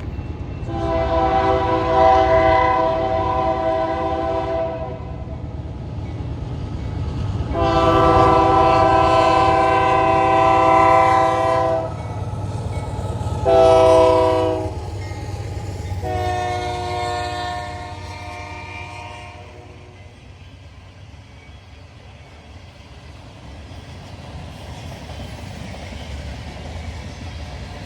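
Union Pacific locomotive's multi-chime air horn sounding the grade-crossing signal of two long blasts, one short and one long, over the low rumble of the train. After the horn stops, the rumble continues more quietly.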